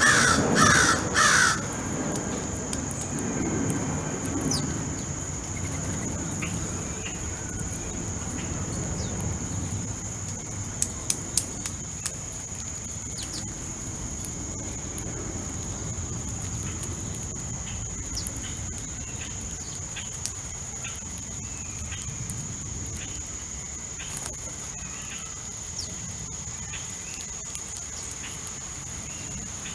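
Backyard birds: a few loud, harsh corvid calls (crow or blue jay) in the first second and a half, then faint scattered chirps of small birds over a steady high-pitched tone.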